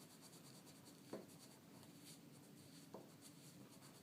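Faint, quick strokes of a colouring tool on paper, with two light taps, one about a second in and one near three seconds.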